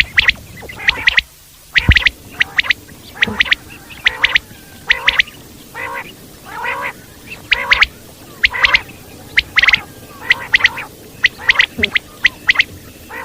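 Common quail calling over and over: quick groups of two or three short, sharp notes, repeated about once a second with hardly a break.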